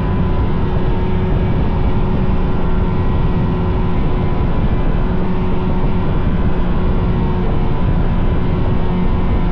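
Vintage snowmobile's two-stroke engine running steadily at an even trail speed, loud and unchanging, with a dense rush of engine, track and wind noise.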